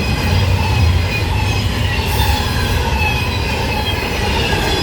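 A train passing close by at high speed: a steady loud rumble of wheels on rail, with thin, steady high-pitched tones ringing over it.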